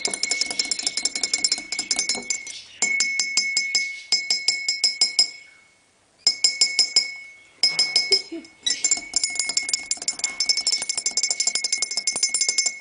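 A coffee cup rung by rapid, even clinks, about ten a second, coming in runs broken by short pauses.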